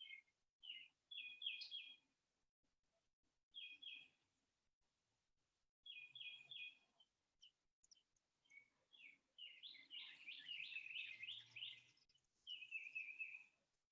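A songbird singing faintly, in short phrases of quick, repeated down-slurred chirps with pauses between, the longest and loudest phrase about ten seconds in.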